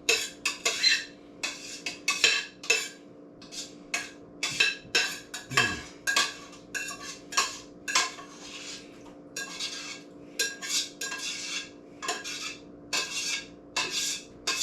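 A spoon scraping and clinking against a cooking pot in quick, irregular strokes, scooping the last of a chicken and macaroni casserole mixture out into a baking pan.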